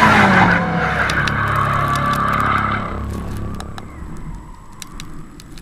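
A BMW M performance car's engine sweeping past, its pitch dropping as it goes by. The engine noise then dies away over the next few seconds.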